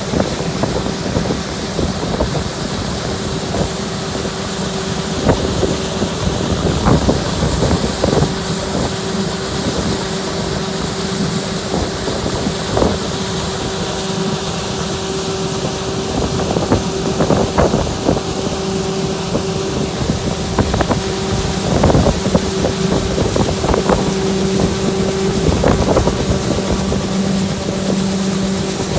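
Combine harvester's engine running steadily under load, with scattered knocks and rattles from the machine.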